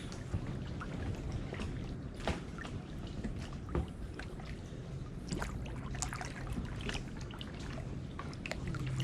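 Kayak paddling: paddle blades dipping and water trickling and dripping off them, with scattered small splashes and knocks.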